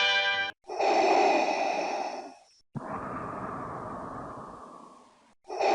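The last note of a music jingle dies away, then heavy, hissing breathing through a mask, Darth Vader's respirator sound effect: a long breath in, a long fading breath out, and another breath in.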